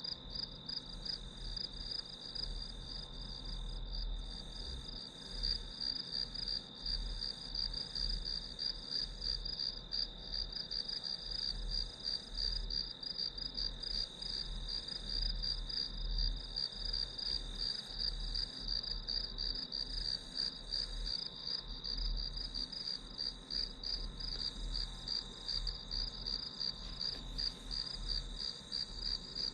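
Crickets and other grass insects chirping: a steady, fast-pulsing high trill, with a second constant high tone just below it.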